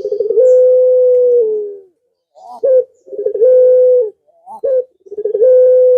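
Male puter (Barbary dove) giving the long-drawn pelung coo three times, calling for a female. Each call opens with a short rising note and a rolling trill, then holds one steady tone for about a second.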